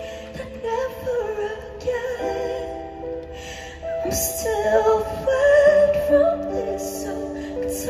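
A female singer's voice carrying a slow, wavering melody over held chords, with a few brief cymbal-like shimmers.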